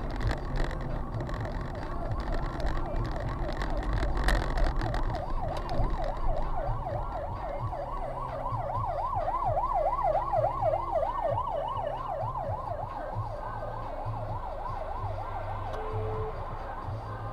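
Emergency vehicle siren in a fast yelp, its pitch swinging up and down about five times a second. It grows louder about five seconds in and is loudest a little past the middle, over a steady low vehicle and road rumble.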